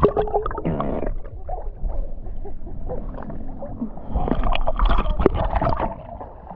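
Sea water splashing and sloshing, as from paddle strokes and movement on a paddleboard, with wind rumbling on the microphone; the splashing is loudest about four to six seconds in.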